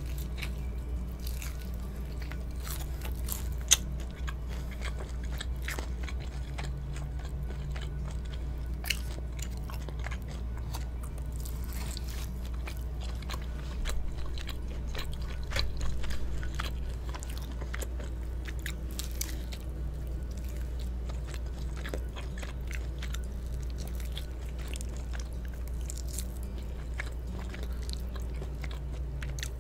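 Close-miked eating sounds of a cheese-coated Korean fried chicken drumstick: the crisp breading crunching and crackling in repeated bites, with wet chewing in between. One sharp crack stands out about four seconds in.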